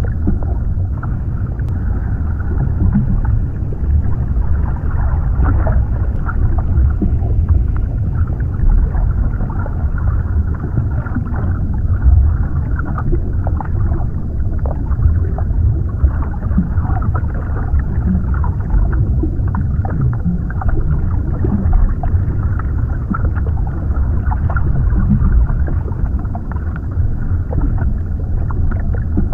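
Underwater ambience: a steady, muffled low rumble of water with scattered small clicks and crackles over it.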